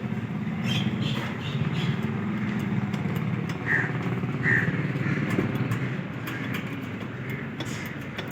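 A vehicle engine running steadily, with two short high squeaks around the middle.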